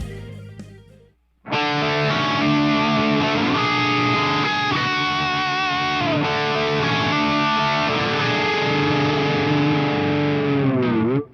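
Distorted electric guitar through a Line 6 Helix crunch preset with effects. After a ringing note dies away, sustained notes start suddenly about a second and a half in, with some bends. Near the end the pitch dives down and the sound cuts off suddenly.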